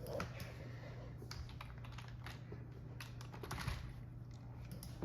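Faint, irregular clicking over a steady low hum.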